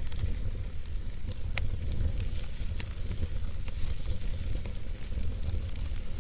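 Wood fire burning in a fireplace: a low steady rumble with a hiss and scattered sharp crackles and pops from the burning logs.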